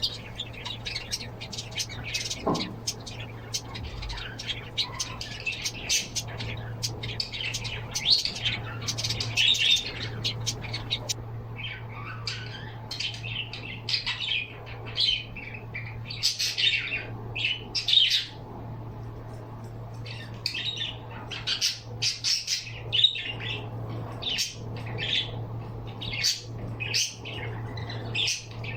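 Pet birds chirping and squawking in quick, irregular calls, over a steady low hum.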